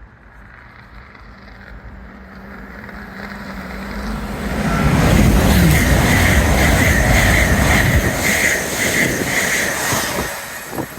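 A train approaching and passing at speed along the line: the rumble builds, is loudest for about five seconds with a drop in pitch as it goes by, and the wheels beat rhythmically on the rails, about two beats a second, before it starts to fade near the end.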